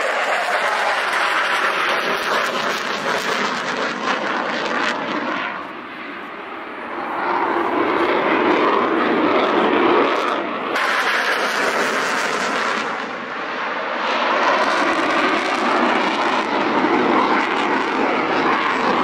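Jet aircraft flying a display pass, its engine roar swelling and fading as it moves across the sky, with a short lull about six seconds in.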